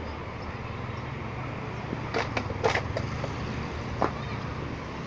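A steady low hum, vehicle-like in kind. A quick cluster of sharp clicks and knocks comes about two seconds in, and one more click near four seconds.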